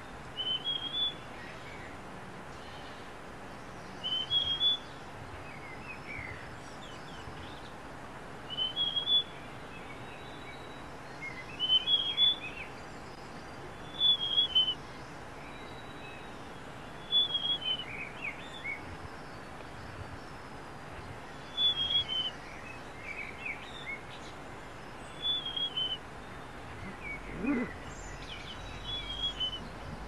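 Large niltava singing: a short phrase of a few high, falling notes, repeated about nine times at intervals of three to four seconds, over a steady background hiss.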